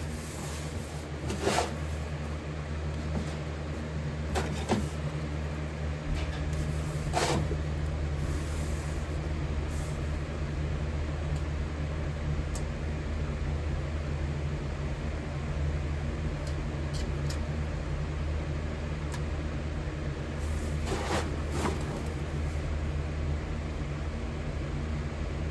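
A steady low mechanical hum from running equipment, with a few short knocks and clinks scattered through it.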